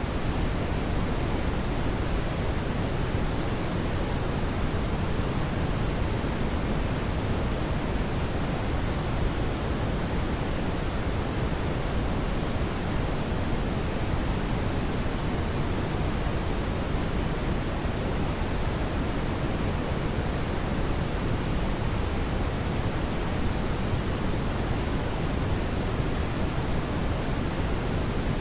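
Steady brown noise: an even, unchanging hiss weighted toward the low end.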